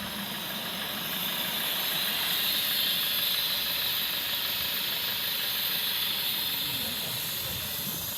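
A steady hiss over the faint low hum of a Maruti Vitara Brezza ZDi's 1.3-litre diesel idling while an HHO carbon cleaner runs on the engine. The hiss swells a little in the middle and then eases.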